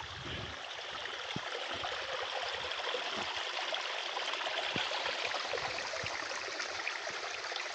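A creek running and splashing steadily, an even rushing sound, with a few faint low knocks.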